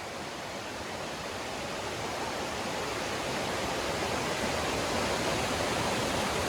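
Steady rush of falling or flowing water, growing slowly louder.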